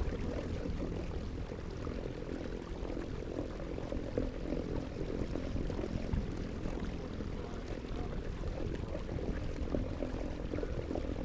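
Steady rushing of moving water.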